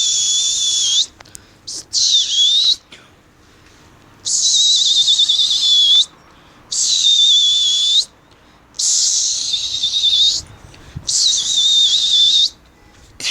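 Pigeon keeper giving a series of loud, breathy whistle blasts, six of them, each held one to two seconds at one steady high pitch, the second dipping and rising: whistling to keep his flock of pigeons in the air.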